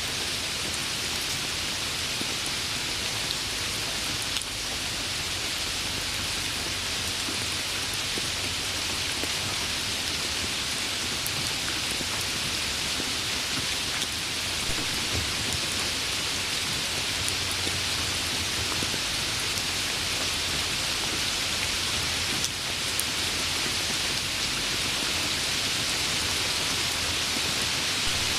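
Steady rain falling on a surface: an even hiss with a few scattered drop ticks.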